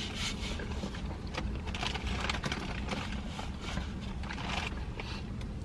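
A man chewing a mouthful of burger, with soft, irregular mouth sounds over a steady low rumble in a car cabin.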